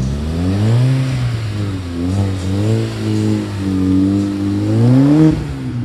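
Car engine revving, its pitch climbing in the first second, wavering up and down, then rising to its highest about five seconds in before dropping off sharply.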